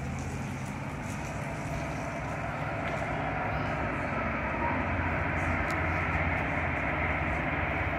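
Rumble of an approaching VIA Rail diesel-hauled passenger train, still some way off, growing slowly louder.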